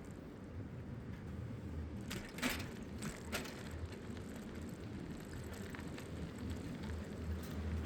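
A bicycle rolling along with a steady low rumble of wind on the microphone, and a couple of brief mechanical rattles from the bike about two and a half and three and a half seconds in.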